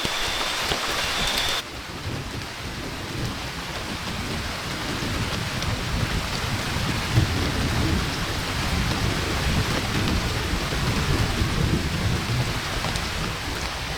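Heavy rain falling steadily, with low rolling thunder that swells through the second half. The sound changes abruptly about a second and a half in, as at a cut.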